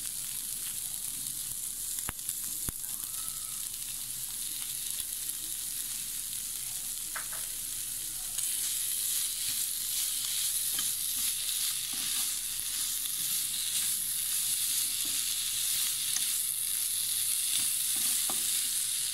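Shredded chicken, pizza sauce and chopped green capsicum sizzling in a non-stick frying pan while being stirred with a wooden spatula. The sizzle gets louder about eight seconds in, and there are a couple of sharp knocks about two seconds in.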